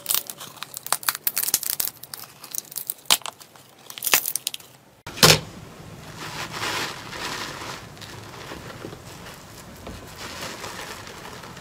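Slime being handled up close, crackling and crinkling in many small clicks. A sharp snap comes about five seconds in, followed by softer, continuous crinkling.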